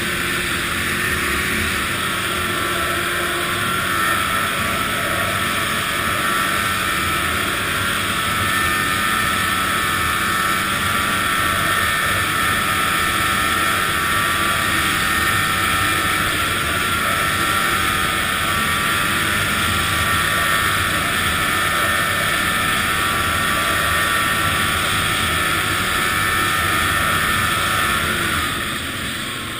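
Arctic Cat ZR 800 snowmobile's two-stroke engine running at a steady pitch under way. Near the end it eases off and the sound drops.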